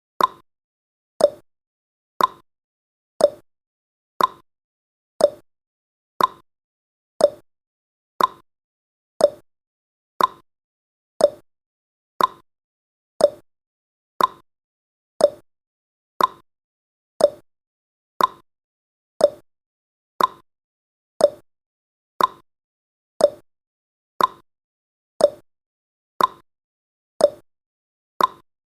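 Clock-style ticking sound effect of a countdown timer, one short tick each second, alternating between a higher and a lower pitch like a tick-tock.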